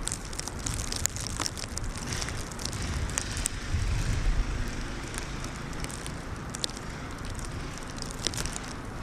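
Wind gusting over the microphone, with plastic trash bag crinkling and crackling as it is held and moved against the body. The crackles come as many short sharp clicks.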